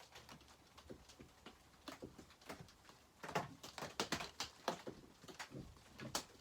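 Irregular light clicks and taps of small metal parts being handled on a chainsaw during reassembly, as a fastener is worked by hand. There is a busier run of clicks a little past halfway.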